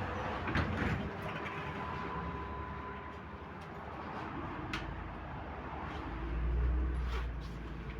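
Inside a MAZ-105 city bus as it leaves a stop: a few knocks as the doors finish closing in the first second, a steady interior hum, then the diesel engine's low rumble rising about six seconds in as the bus pulls away.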